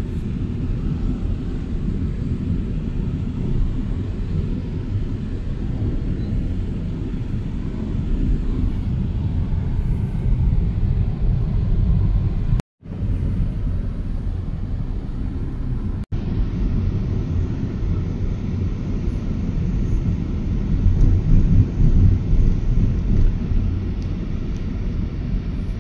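Low, steady rumble of a moving vehicle, road and wind noise, that breaks off for a moment twice, once about halfway through and again a few seconds later.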